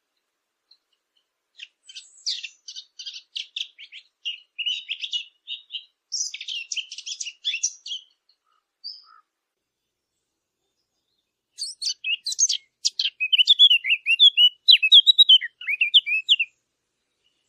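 A small songbird, the 'fig bird' of Arabic bird hunters (a warbler), sings two bursts of fast, varied, high warbling song separated by a pause of a few seconds. The second burst is the louder.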